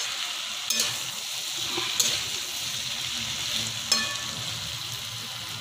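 Potato and cauliflower pieces sizzling as they fry in oil in a pan, stirred with a steel spoon that clicks sharply against the pan three times.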